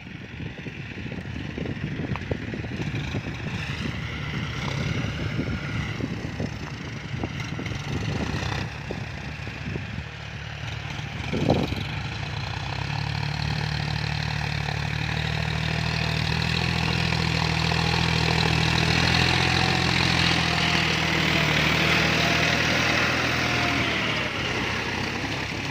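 John Deere diesel tractor engine running under load while ploughing, with clattering and knocks from the field work; the engine hum grows steadily louder from about halfway through, with one sharp knock just before.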